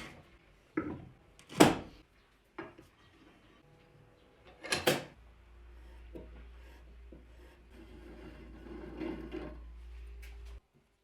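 Workshop handling noises: a few sharp knocks and clatters of wooden parts and tools, the loudest about a second and a half in, then a low steady hum that cuts off suddenly near the end.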